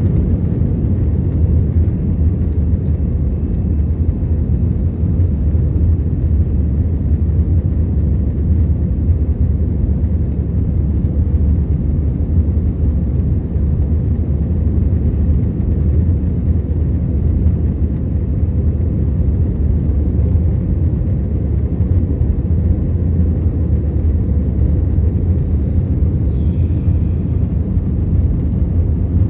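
Airbus A321-211's two CFM56 engines at climb power with rushing airflow, heard inside the passenger cabin during the initial climb after takeoff: a steady, deep rumble.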